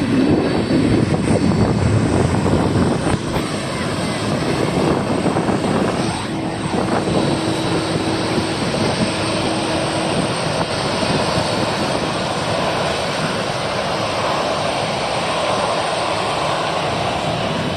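Jet airliner engines running: a steady, loud rushing noise, with a low steady hum joining in for a few seconds midway.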